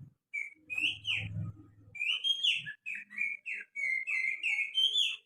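Human finger whistling imitating the song of a white-rumped shama: a quick run of short whistled notes that slide up and down.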